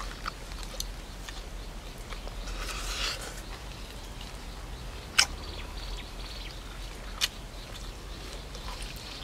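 A person eating grilled pork: chewing and mouth sounds, with a few sharp clicks, the loudest a little after five seconds in and another about two seconds later.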